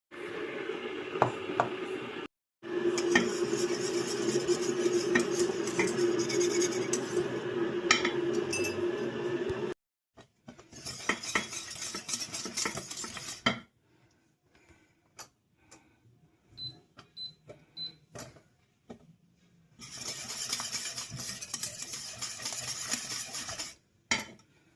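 Spoon stirring and clinking in a pot of cooking semolina (kasha manna), over a steady kitchen noise. It comes in several short stretches that start and stop abruptly, with only a few faint clicks between them.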